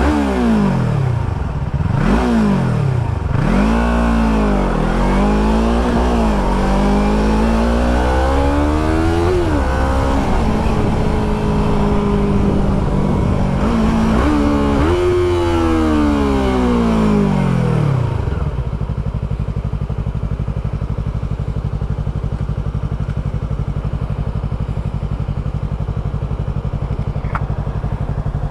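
Motorcycle engine revving up and falling back again and again, its pitch climbing and dropping several times as it pulls away through the gears. After about 18 seconds it settles to a steady idle.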